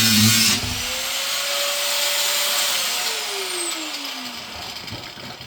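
Angle grinder with a cutting disc grinding into the boiler's metal tank. It comes off the cut under a second in, and its whine rises as it runs free. It then falls steadily as the grinder is switched off and spins down.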